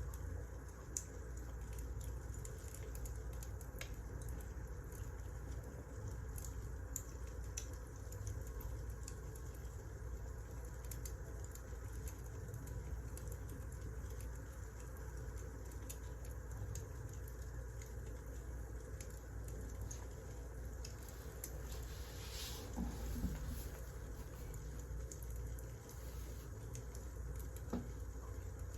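Wood fire crackling, with scattered small pops and snaps over a low steady rumble; a denser run of crackles comes about two-thirds of the way through.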